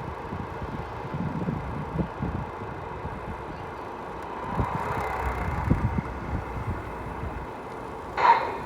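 Tamiya Scania R620 6x4 radio-controlled model truck running, with an uneven low rumble and knocks. A faint whine comes up about halfway through, and a short, loud tone sounds near the end.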